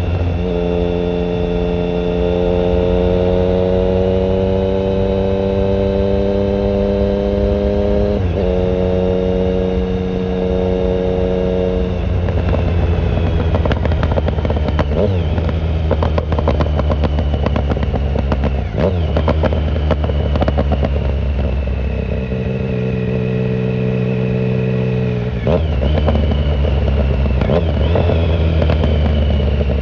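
A 2009 Triumph Speed Triple 1050's inline three-cylinder engine through a short Competition Werkes exhaust with no silencer, ridden under way. It pulls up through the revs with a brief break for a gear change about eight seconds in. Then the throttle is rolled off with falling revs and sharp crackling on the overrun, before it settles to steadier running with two quick changes in pitch near the end.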